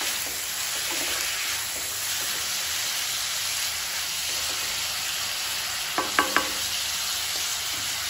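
Sliced onions and fresh peas sizzling in hot oil in a kadhai while being stirred and tossed with a spatula. About six seconds in, the spatula clinks against the pan three times in quick succession.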